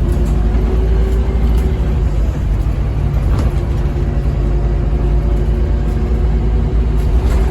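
Scania N230UB OmniCity bus on the move, heard from on board: a steady low diesel rumble with a constant whine.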